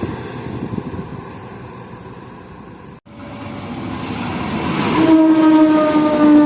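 A passing train's rumble fades, then after a sudden break another train approaches, its rumble growing louder. About five seconds in, the diesel locomotive sounds its horn: one long, steady note that sinks slightly in pitch.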